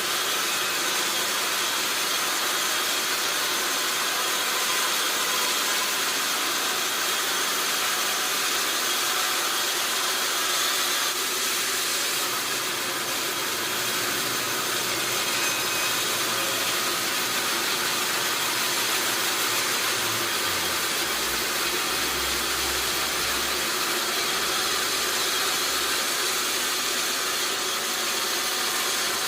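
Sawmill machinery running with a steady, hissy noise, mostly high-pitched, with a brief low rumble about twenty seconds in.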